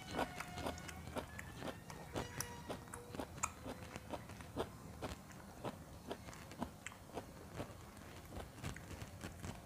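Close-up chewing: a mouthful of stir-fried vegetables and rice eaten by hand, heard as a string of soft, irregular mouth clicks and smacks.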